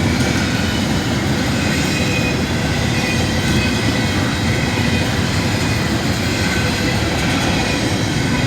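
Freight train cars rolling past on the rails with a steady low rumble and faint wheel squeal.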